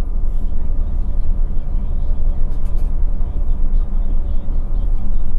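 Scania K450 bus's diesel engine running steadily under way, a deep rumble with road and drivetrain noise.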